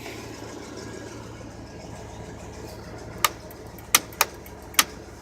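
1992 GMC Sierra 3500 HD pickup engine idling steadily, with four sharp clicks over it in the second half.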